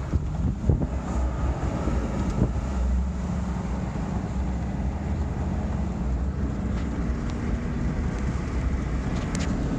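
Steady engine and road drone of a vehicle driving in strong wind, with gusts buffeting it and a few light knocks.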